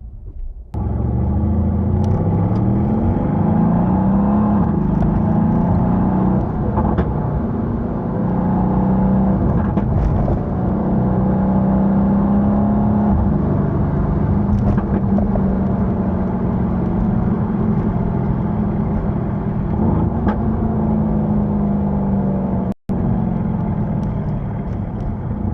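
Mercedes-AMG C63 S (W205) twin-turbo V8 through its stock exhaust, heard while driving: it comes in abruptly about a second in, its note rises over the next few seconds, then holds steady at a cruise. The sound drops out for an instant near the end.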